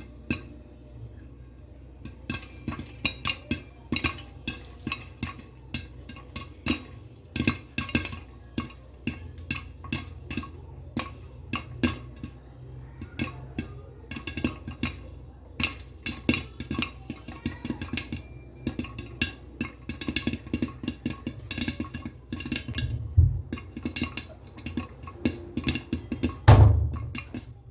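Popcorn kernels popping in a cooker covered by its upturned lid: many sharp, irregular pops, several a second, over a steady low hiss from the gas stove. A couple of heavier thumps come near the end.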